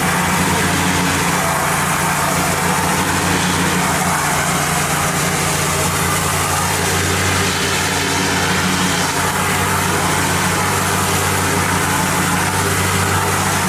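Hot-water pressure washer running steadily, its engine humming under the even hiss of the high-pressure spray blasting grease off concrete.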